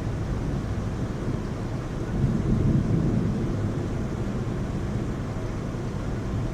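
Heavy rain falling steadily, with a low rumble that swells about two seconds in and eases off about a second later.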